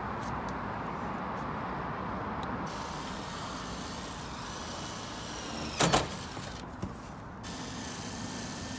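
Steady background noise with a sharp double knock, like something hard striking metal, about six seconds in, and a lighter click a second later.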